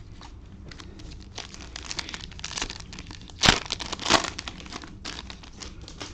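Cellophane-wrapped trading-card packs crinkling and being torn open by hand, a dense run of crackles with two louder rips about three and a half and four seconds in.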